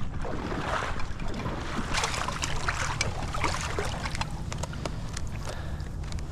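Water sloshing and splashing with many scattered sharp clicks and crackles, over a low steady rumble of wind on the microphone.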